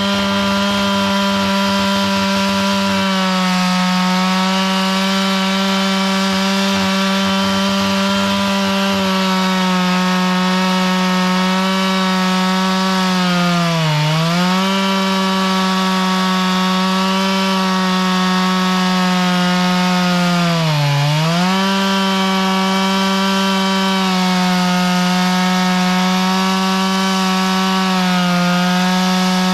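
Chainsaw running at high, steady speed while cutting wood lengthwise, milling a log. Its pitch sags briefly twice, about halfway through and again about two-thirds through, as the engine bogs under load and then recovers.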